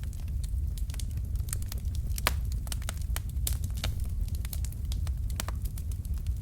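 Wood fire crackling: burning logs throwing out frequent irregular sharp pops and snaps, one louder pop a little over two seconds in, over a steady low rumble of flames.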